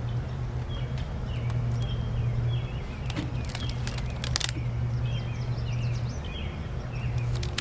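Small birds chirping repeatedly over a steady low hum, with a quick cluster of sharp clicks about three to four seconds in.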